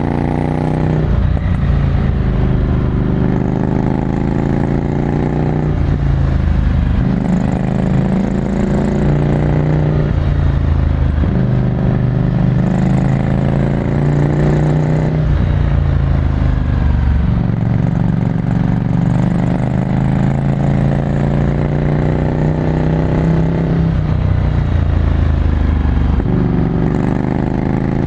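Ducati Scrambler Desert Sled's 803 cc air-cooled L-twin through a full Termignoni exhaust, heard from the rider's seat. Its pitch climbs under throttle for a few seconds, then drops back, again and again as the bike accelerates and shifts or rolls off.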